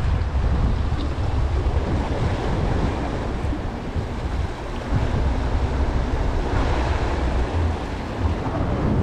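Sea waves washing on the shore, with wind buffeting the microphone in a low, fluttering rumble.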